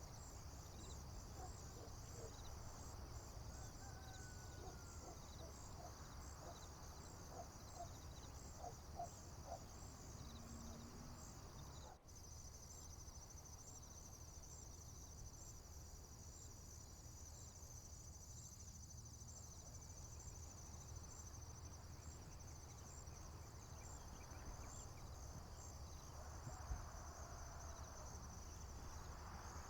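Faint, steady chorus of crickets trilling high and continuously in a rural field, with a few scattered bird chirps about a third of the way in. A low rumble of wind runs underneath.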